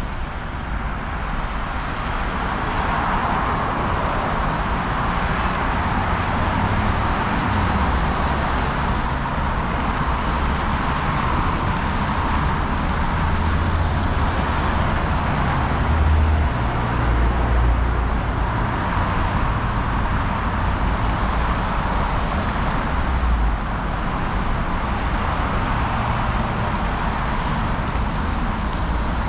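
Steady city street traffic noise, with a low rumble that swells and fades.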